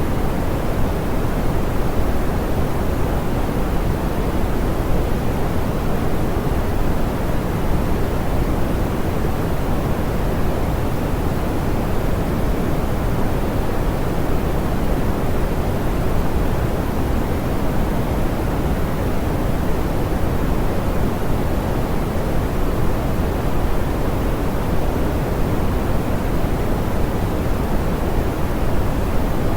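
Steady, smoothed pink noise: an even, unchanging hiss, heaviest in the low end and softer toward the top.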